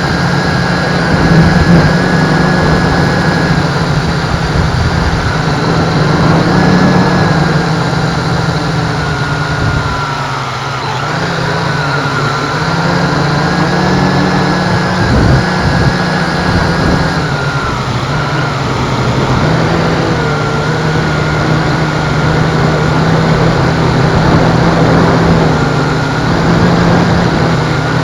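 MJX X101 quadcopter's motors and propellers whirring steadily, their pitch wavering up and down as they hold against strong wind. Gusts buffet the microphone with a low rumble.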